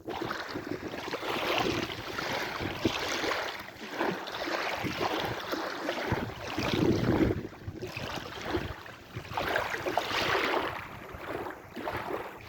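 Sea waves washing and breaking, the surge swelling and falling every second or two, with wind rumbling on the microphone.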